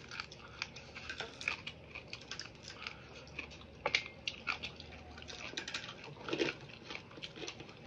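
Close-up chewing and crunching of crispy chicken feet: a quick, irregular run of crisp crackles and crunches.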